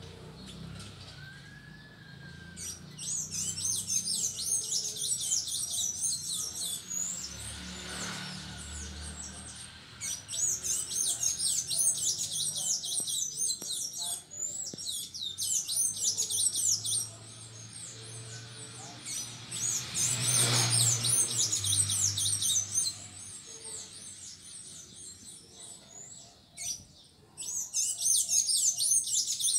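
Small songbirds chirping in quick, high-pitched runs lasting a few seconds each, with short pauses between.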